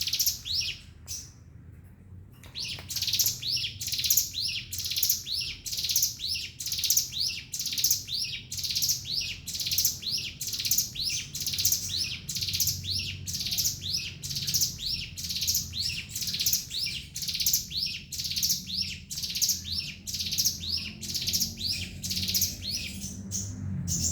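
A ciblek gunung, a small prinia songbird, singing a fast, unbroken run of high, sweeping chirps repeated several times a second. This is the continuous 'ngebren' song prized by bird keepers. There is one short pause about a second in.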